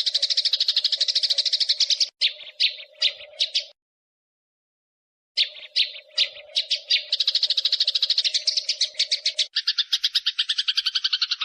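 Eurasian tree sparrows in a fast, even rattle of chirps, the excited chatter of sparrows squabbling. It breaks into a few separate chirps and cuts out for over a second, then starts again. Near the end it changes to a lower-pitched run of chirps.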